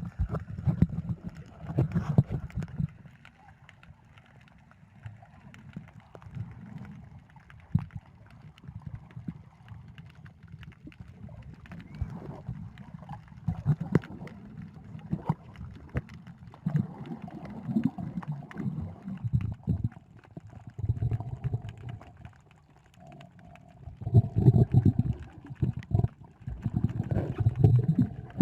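Muffled water movement around the camera while it is in the sea: irregular low gurgling swells with scattered small clicks and knocks, louder in stretches near the end.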